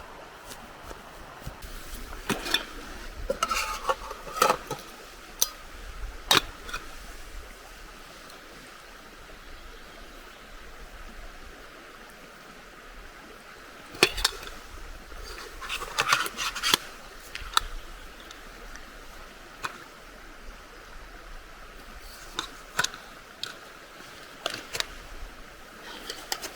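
Camp cookware and utensils being handled, clinking and knocking in irregular clusters of sharp metallic clicks, over a faint steady background rush.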